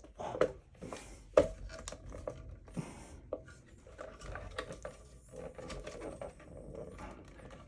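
Plastic cover panel of a Steelcase Amia office chair being worked loose by hand: irregular sharp clicks and knocks as its retaining tabs are pried free, the loudest about a second and a half in, with plastic scraping and rustling in between.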